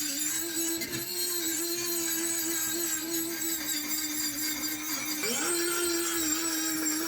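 Small electric power tool motor running at a steady pitch. About five seconds in its pitch drops and spins back up.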